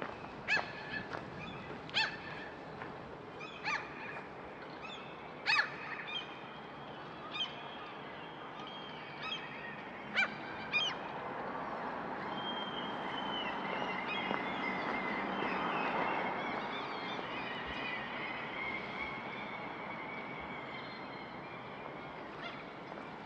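Birds calling: a string of short, sharp calls over the first half, then longer wavering calls over a background noise that swells and fades again about two-thirds of the way through.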